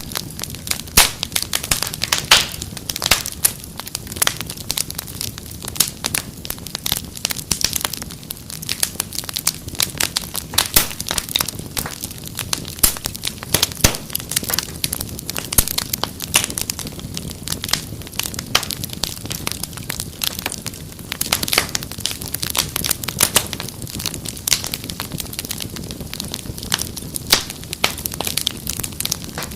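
Wood fire crackling steadily, with many irregular sharp pops and snaps over a low rumble.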